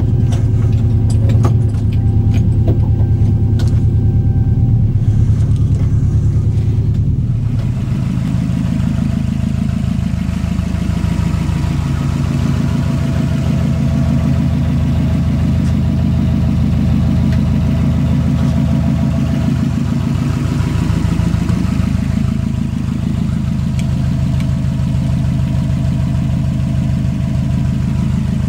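Subaru EJ207 turbocharged flat-four engine in a VW Beetle running steadily at idle. It is heard first from inside the cabin, with a few clicks, and then, after a change about seven seconds in, from outside beside the open engine bay.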